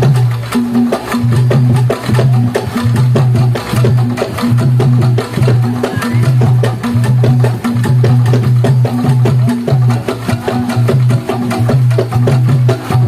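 Javanese gamelan-style percussion music: a low drum-like note sounding about once a second under quick, clacking wooden strokes.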